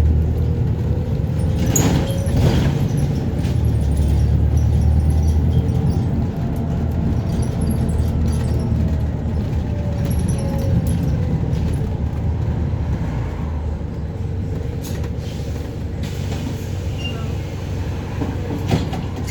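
Double-decker city bus heard from inside while driving: a steady low engine and road rumble with body rattles and a faint whine, heavier for the first few seconds and then easing slightly. A couple of short knocks come about two seconds in and a sharp click near the end.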